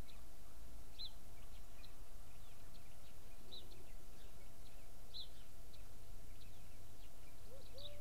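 Garden birds chirping: short, high chirps repeated every second or so, with a lower call near the end, over a steady low hum.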